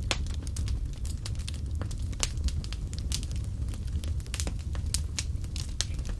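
Wood fire burning in a fireplace: a steady low rumble of flame with frequent irregular crackles and a few sharper pops.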